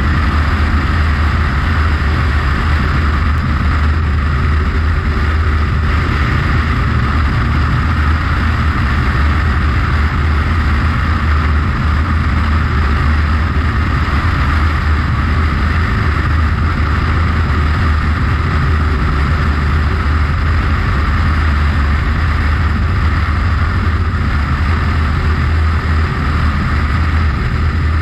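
Piper Archer's four-cylinder Lycoming engine and propeller running at a steady drone, heard from inside the cockpit.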